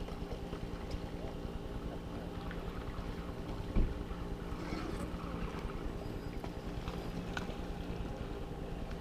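Steady low hum of a small motor running, pulsing quickly, with wind on the microphone. A single dull thump about four seconds in.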